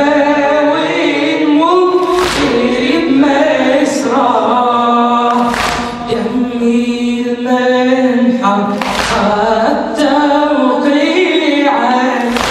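Congregation chanting a Shia latmiyya lamentation in unison, unaccompanied, in long held lines. A heavy collective thump falls about every three and a half seconds, four times, the beat of the mourners striking their chests in time.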